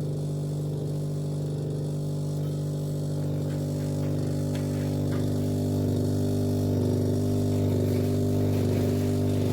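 Steady electrical hum with several steady tones, growing slightly louder midway: the compressor of a compact under-counter fridge running.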